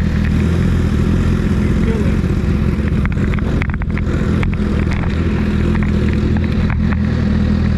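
Honda CBR1000RR-R's inline-four engine running steadily at constant revs.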